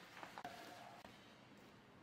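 Near silence: faint room tone, with a brief faint tone about half a second in.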